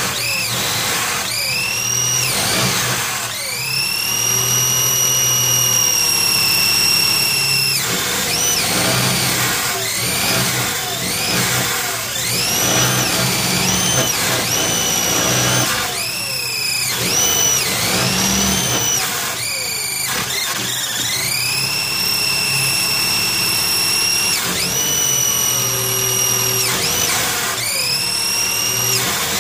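Opel Rekord C 1900's four-cylinder engine running while the throttle on its Weber 32/36 DGAV carburettor is opened and closed by hand over and over, with a high whine that rises and falls with each blip. The untuned engine whines and wants to die when given throttle.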